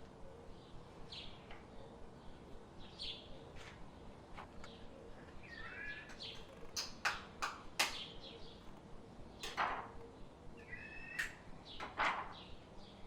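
Small birds chirping in short calls, over a faint, regular ticking of about two or three ticks a second. A few louder, sharp clacks come in the middle and near the end.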